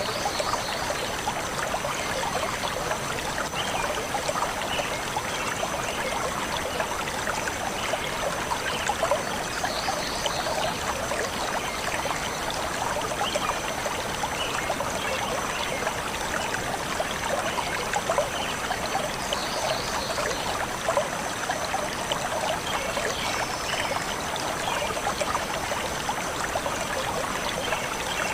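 Forest stream flowing and trickling steadily, with a few faint, brief bird chirps over the water.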